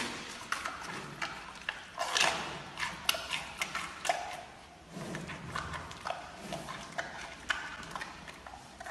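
Giant panda chewing and biting a fresh bamboo shoot close up: irregular wet crunches and clicks of its bites and chewing.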